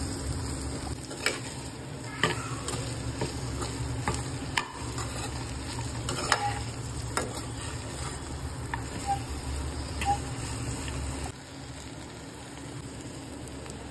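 Cut okra sizzling as it fries in oil in a pan while a spatula stirs it, with sharp knocks of the spatula on the pan every second or so. About eleven seconds in the stirring stops and the sizzle carries on more quietly.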